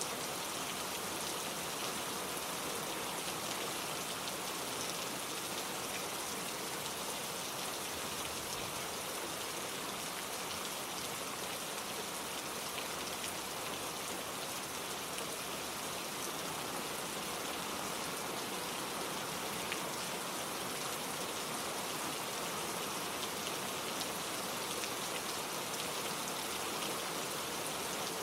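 Steady gentle rain falling, an even hiss of drops with no thunder.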